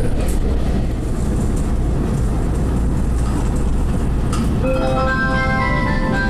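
Steady low rumble of a moving train heard from inside the carriage. About four and a half seconds in, a chiming melody of clear notes starts over the train's loudspeaker, loud enough to stand out.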